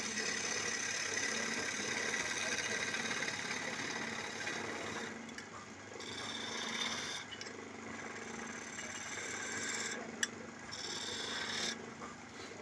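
Wood lathe running with a chisel cutting into the spinning wood: a steady scraping hiss over the machine's hum that eases off and comes back a few times. One sharp click about ten seconds in.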